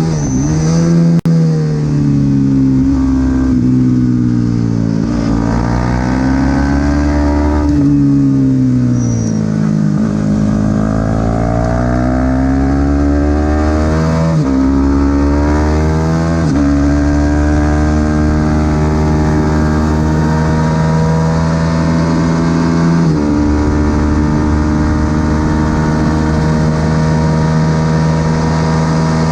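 Supersport 300 race motorcycle engine at racing revs, the pitch rising and falling again and again. There are sudden drops as gears change about 14 and 16 seconds in, then the engine holds a nearly steady high pitch.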